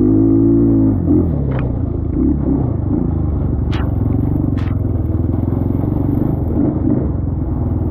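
Trailmaster TM33 dirt bike engine running, its note dropping about a second in and then holding steady, with a few short clattering knocks over it.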